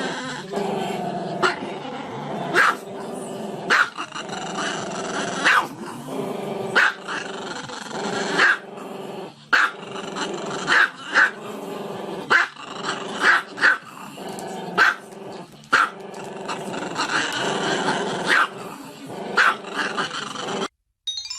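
A dog growling almost continuously, broken by short, sharp barks about once a second, stopping abruptly near the end.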